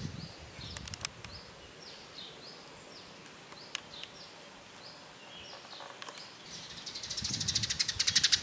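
Outdoor nature ambience: a bird calls again and again with short, high, falling chirps over a faint steady high whine. Near the end a loud, fast rattle builds up.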